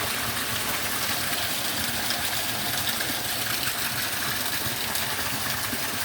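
Heavy rain pouring down in a steady hiss, with water running and splashing.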